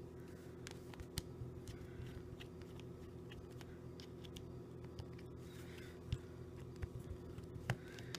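Faint small clicks and scrapes of a small Torx screwdriver working on a plastic phone, scattered and irregular, over a steady low hum.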